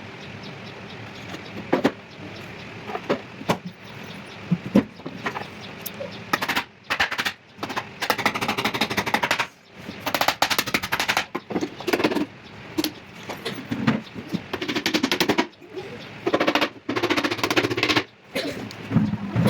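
Short spells of rapid clattering, each a second or two long with brief pauses between, from a power tool in shelf-making work, after a few separate knocks in the first seconds.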